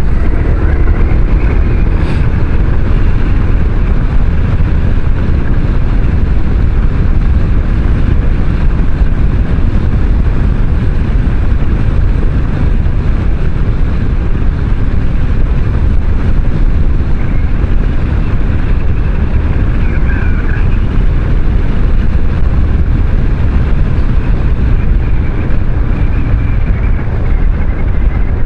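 Kymco Xciting 500 maxi-scooter being ridden at a steady speed: engine and road noise under heavy wind rumble on the microphone.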